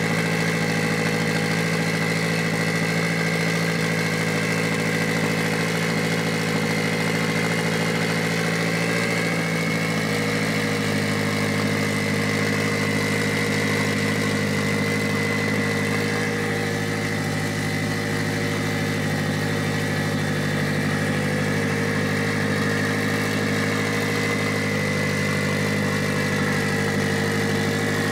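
Mitsubishi Lancer Evolution VIII's freshly rebuilt 4G63T turbocharged four-cylinder engine idling steadily, with a thin steady high whine over it. The idle note shifts slightly about a third of the way in and again near the end.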